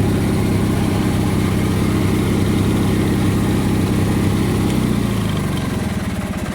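Garden tractor engine running steadily at idle. About five seconds in it slows down, its firing pulses spreading out as it winds down toward a stop.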